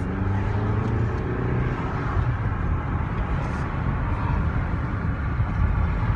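Hyundai Santa Fe pulling away: its engine note rises gently over the first two seconds, then settles into a steady rumble of engine and road noise.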